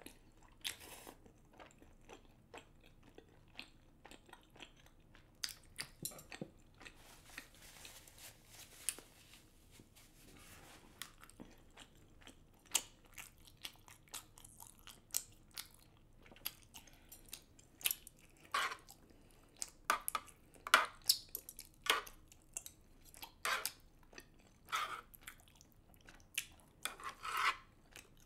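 A person chewing chewy rice cakes and noodles in spicy black bean sauce: irregular mouth clicks, louder and more frequent in the second half.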